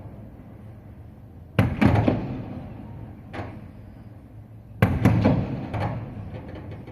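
Fireworks shells bursting, with deep booms that die away in a rumble: a loud one about a second and a half in, a weaker bang around the middle, and another loud one near the end followed by a few smaller cracks.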